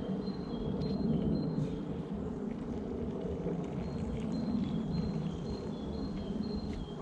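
A small songbird singing a repeated two-note phrase, a high note then a slightly lower one, over and over, above a steady low rumble.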